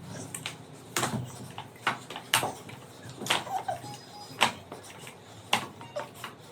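A run of sharp, short taps or slaps, roughly one a second, with a few faint brief chirps between them.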